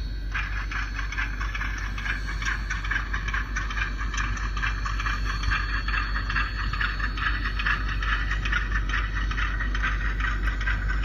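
Model train running along the layout's track: a steady run of rapid, irregular wheel clicks and rattle over the rails, with a faint steady motor whine and low hum underneath.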